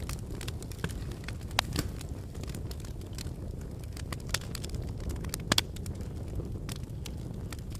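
Fire burning in a fireplace: a low steady rumble with scattered crackles and sharp pops. The loudest pops come about a second and a half in and as a quick pair about five and a half seconds in.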